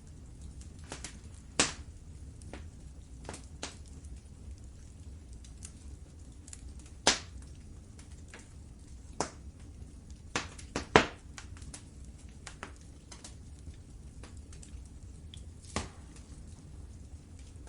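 Fire in a fireplace crackling: scattered sharp pops and snaps over a low steady rumble, with a quick cluster of louder pops about two-thirds of the way through.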